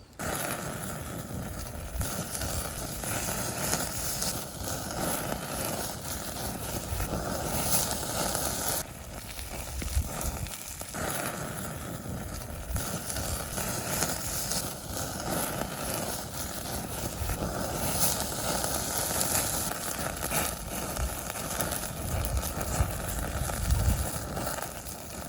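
Horumon (offal) sizzling on a grill over a small fire-pit fire: a steady hiss with frequent crackles. The sound changes abruptly about nine and eleven seconds in.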